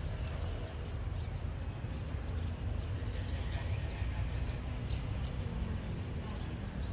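Steady low rumble of a diesel locomotive engine running, with short high bird chirps scattered over it.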